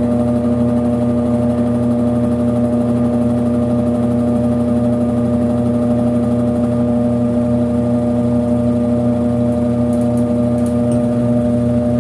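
Brastemp 5 kg washing machine running steadily, most likely in its spin cycle, with an even motor hum.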